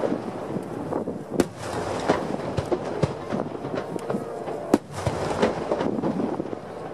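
Aerial fireworks display bursting at a distance: a dense run of small pops and crackles, with two louder bangs, one about a second and a half in and one near five seconds in.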